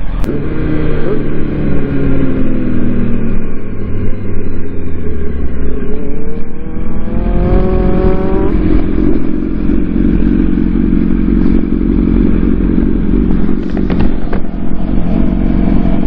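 Sport motorcycle engine winding down as the bike slows, then revving back up and accelerating about six seconds in, and settling into a steady run for the rest.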